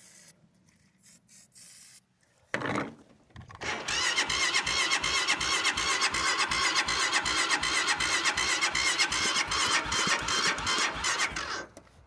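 Engine being cranked by its starter motor for about eight seconds without catching, with a whining squeal over the rhythmic beat of the cranking, then cut off; a cold engine that won't start.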